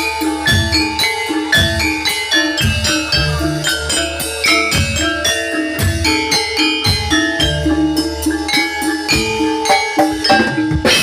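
Javanese gamelan music for jathilan: bronze metallophones play a quick, repeating pattern of struck notes over regular low drum strokes.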